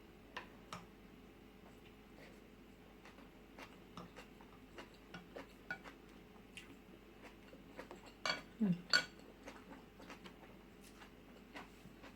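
Faint, scattered clinks of a spoon against a bowl and dish while eating, with a louder cluster of clinks about eight seconds in.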